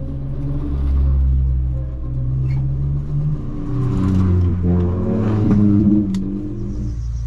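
Small kei-car engine heard from inside the cabin, holding a steady note, then revving up and down a couple of times before settling to a low steady run near the end.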